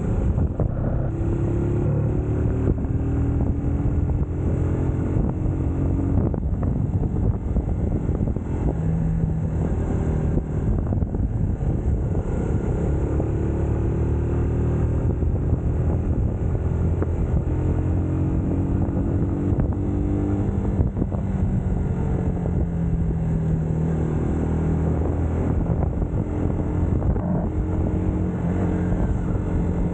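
UM Scrambler X motorcycle engine under way, its pitch climbing as it pulls through each gear and dropping at each shift, several times over.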